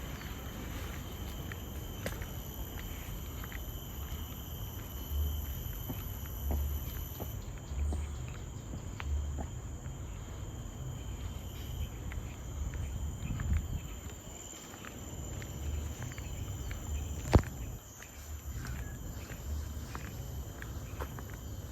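Steady high-pitched drone of forest insects, with footsteps thudding along a trail about once a second, and a single sharp click about seventeen seconds in.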